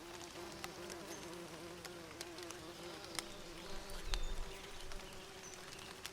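Honey bees buzzing steadily, the pitch wavering as they fly about, with scattered small clicks and a few faint, short, high bird chirps. There is a brief low rumble about four seconds in.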